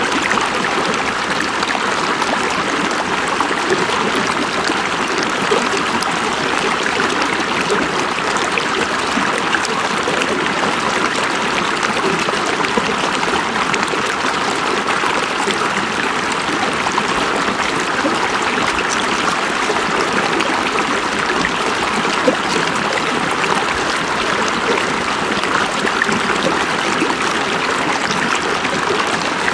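River water flowing and babbling over stones, a steady, even rush with small splashes and gurgles.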